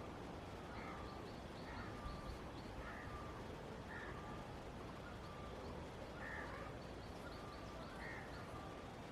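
A crow cawing over and over, about once a second, over a faint steady background hiss.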